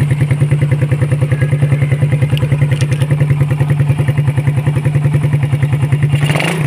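Suzuki Raider motorcycle engine idling steadily with an even, rapid pulse; the engine has just been refreshed and its valves shimmed.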